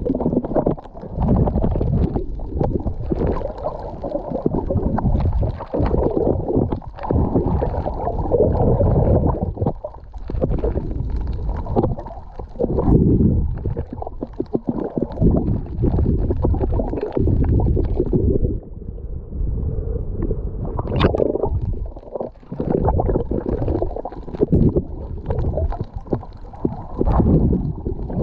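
Muffled water sloshing and gurgling against a camera held underwater, in uneven surges every few seconds with occasional sharper splashes.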